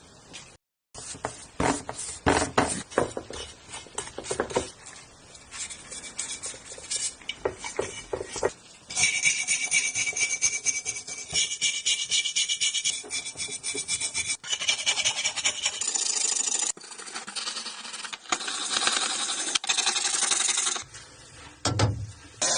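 Rubbing and scraping strokes on the parts of a vintage pencil sharpener being cleaned up by hand, turning into a denser, steadier rasping from about nine seconds in.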